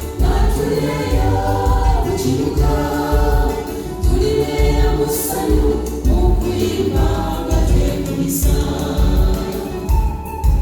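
Choir singing gospel music over a steady, bass-heavy beat.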